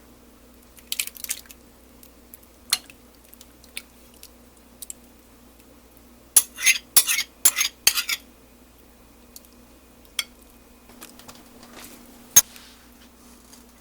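Utensils and dishes clinking and scraping as a tomato mixture is poured and spread from a bowl over chicken in a baking dish: scattered clicks, a quick run of clatters about halfway through, and one sharp knock near the end.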